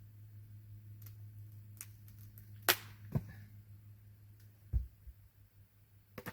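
A few separate sharp clicks and knocks, the loudest a little under three seconds in and a dull thud near five seconds, over a low steady hum.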